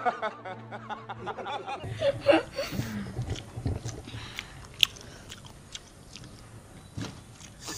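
People chewing and biting food at close range, with wet mouth sounds, small crunches and clicks, and a sharp tap about five seconds in.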